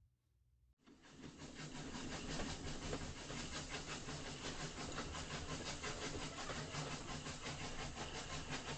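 Train sound cutting in suddenly about a second in: a train running steadily with a rapid, even clatter over a hiss.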